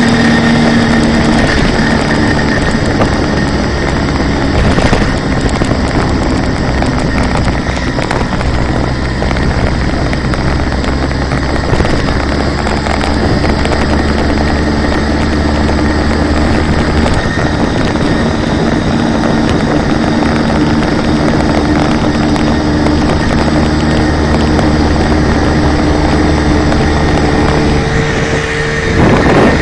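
Hercules Prima 5S moped's small two-stroke engine running steadily. Its note rises a little about halfway through. The owner finds the engine's noises strange.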